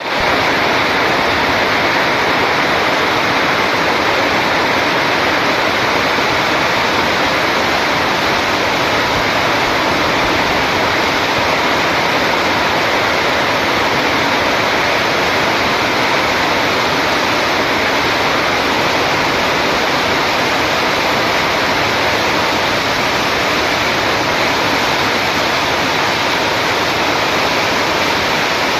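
Steady heavy rain: an even, unbroken hiss with no separate drops or thunder.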